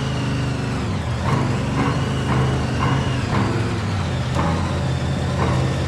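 Steady monster-truck engine rumble, a low drone with a faint higher whine that rises and falls.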